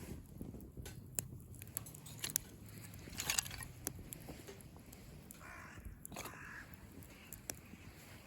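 A crow cawing twice, harsh calls about five and six seconds in, over scattered sharp crackles and clicks from a wood fire.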